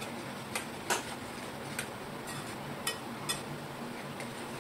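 Chicken pieces sizzling in hot oil in a stainless steel pot, stirred with a perforated metal skimmer that clicks against the pot about five times.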